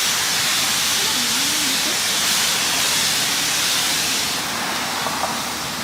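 Steady hissing spray of water from a pressure washer. It eases slightly about four and a half seconds in.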